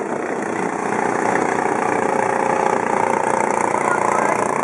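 Thai longtail boat's engine running, growing a little louder about a second in and settling into a steady engine note.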